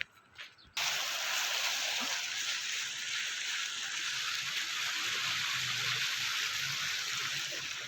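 Flowing river water rushing steadily, starting abruptly just under a second in.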